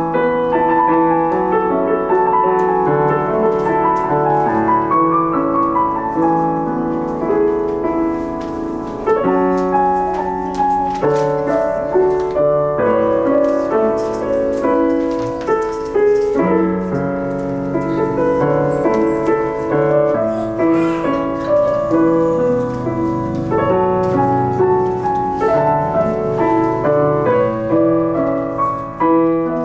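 Solo piano playing a continuous piece, with chords under a moving melody and no pauses.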